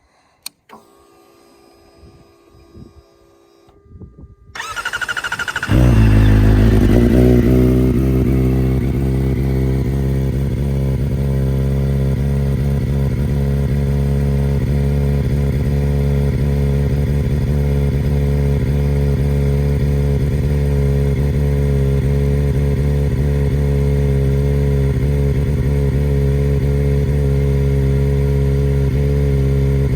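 2024 Kawasaki ZX-4RR's 399 cc inline-four, fitted with a full Akrapovic racing line exhaust, being started: a click and a faint whine, the starter cranking briefly about four and a half seconds in, the engine catching loudly about a second later, then settling into a steady, loud idle.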